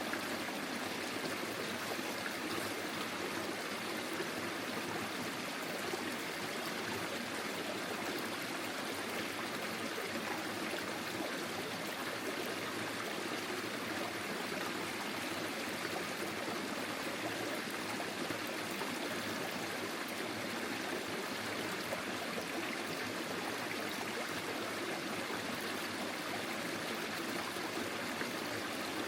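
Small forest stream flowing steadily, water trickling and gurgling over stones.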